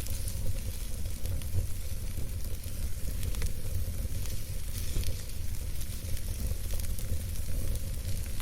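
Wood campfire burning, with many small, irregular crackles and pops over a steady low rumble.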